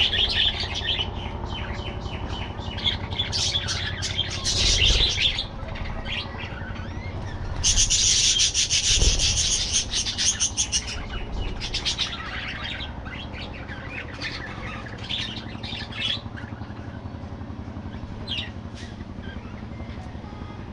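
A flock of budgerigars chirping and chattering in quick, overlapping calls, loudest for a few seconds in the middle. A steady low hum runs underneath.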